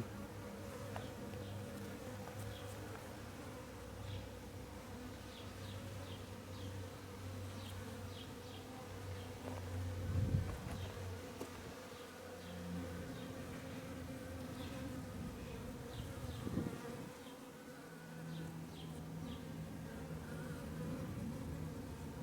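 Many honey bees buzzing steadily as they fly around an open bait hive, drawn by the lemongrass-scented swarm lure rather than a swarm. Two brief low thumps come about ten seconds in and again near sixteen seconds.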